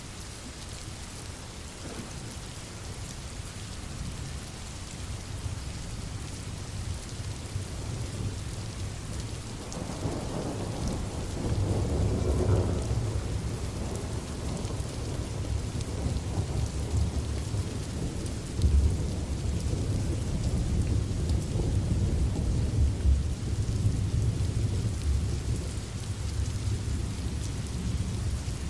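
Steady rain hiss, with a roll of thunder coming in about ten seconds in. The thunder swells for a few seconds, then keeps rumbling low under the rain.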